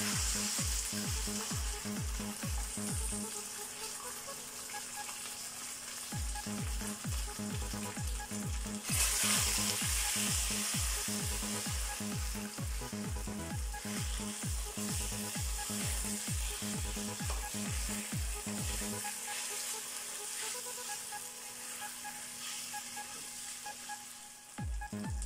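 Marinated chicken pieces sizzling in hot oil in a non-stick wok, stirred with a silicone spatula; the sizzle gets louder about nine seconds in. Background music with a steady low beat plays under it and drops out for a few seconds near the end.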